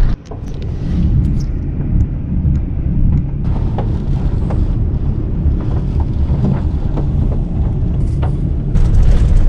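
Vehicle driving: a loud, steady low rumble of road and engine noise with a few light knocks.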